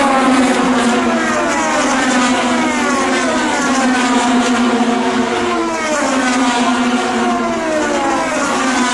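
IndyCar race cars' engines at full throttle as a string of cars passes one after another, each engine note falling sharply in pitch as it goes by.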